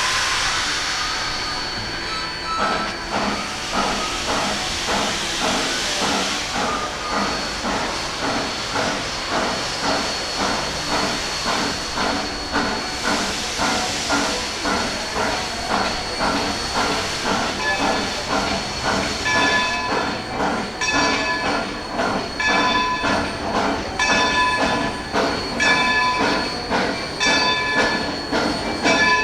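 Baldwin 0-6-0 steam locomotive No. 26 working a passenger train: a burst of steam hiss in the first couple of seconds, then a steady rhythm of exhaust chuffs, a little over one a second, with more hiss about halfway through.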